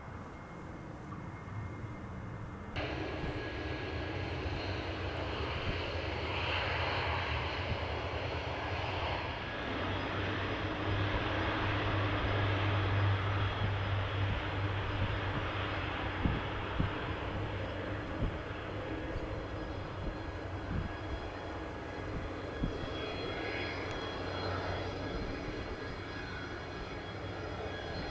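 Airliner engines running as a plane passes, swelling to a peak midway and then fading, with gusts of strong wind buffeting the microphone.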